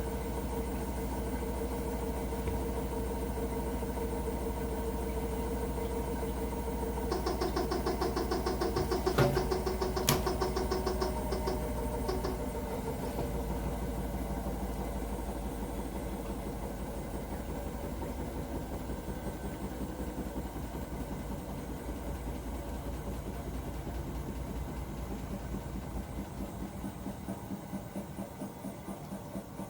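Hotpoint NSWR washing machine running with a steady hum. About seven seconds in, a fast rattle with two sharp clicks sets in for about five seconds, then the steady running goes on, slowly getting quieter. This is the weird noise the owner asks about; the cause is unknown.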